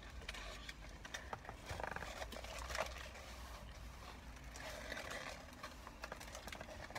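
Close-up chewing and wet mouth clicks of a person eating a soft roast beef sandwich, with a puff of breath blown out through pursed lips about halfway through, over a low steady hum.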